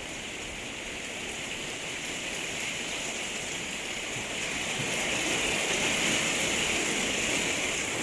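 Torrential rain pouring steadily, growing a little louder about halfway through.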